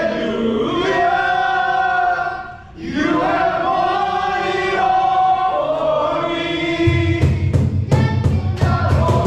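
Worship music: a group of voices singing a slow song together in long held notes, with a brief drop between phrases. About seven seconds in, drums and bass come in with a steady beat.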